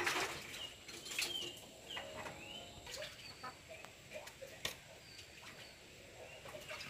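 Birds chirping in short arched calls, with lower wavering calls under them and a few sharp clicks, including a loud knock right at the start.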